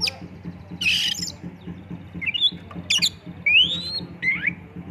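Oriental magpie-robin (kacer) singing: quick sharp whistled notes, rising slurred whistles, and a harsh rasping burst about a second in.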